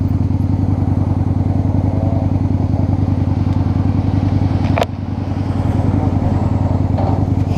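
Honda Shadow's V-twin engine idling steadily at close range. A single sharp click comes about five seconds in, and the level dips briefly after it.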